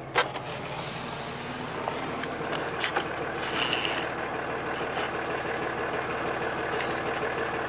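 Vehicle engine idling steadily, a low even hum, with a sharp click just after the start.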